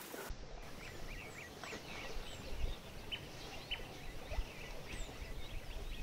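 Birds chirping: many quick, short calls and a few thin, high whistles that fall in pitch, over a faint low rumble.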